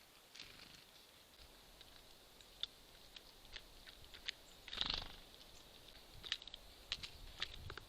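Small birds at a wooden squirrel feeder stocked with seeds and nuts: scattered sharp taps and clicks of pecking and hopping, with one louder rustling thump about five seconds in.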